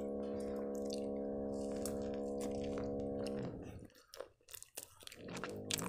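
Close-miked chewing of strudel with a crumb topping, with many small crunching clicks. Under it a steady low hum cuts out for about two seconds a little past halfway, then comes back.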